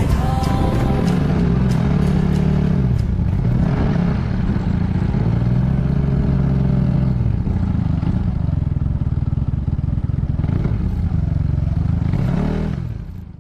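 Yamaha Majesty S scooter's single-cylinder engine running on the move, its pitch rising and falling several times with the throttle through a CVT fitted with Dr. Pulley weight rollers. The sound cuts off abruptly at the end.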